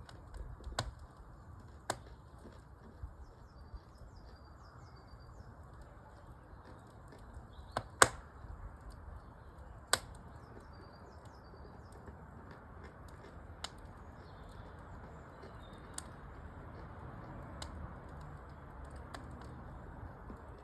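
Wood fire burning in a fireplace, crackling with a low hiss and sharp pops every second or two, the loudest about eight and ten seconds in. Birds chirp faintly.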